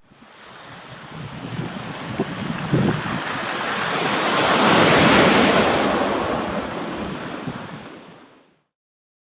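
Sea surf washing on the shore, one even rush of water that swells to a peak about halfway and then fades away near the end.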